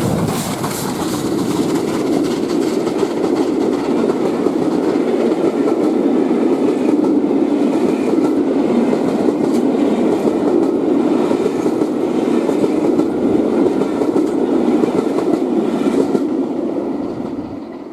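A steam-hauled railtour train passing close at speed, with a steady rumble of wheels on rail and a clickety-clack of coaches running over the rail joints. It fades out near the end.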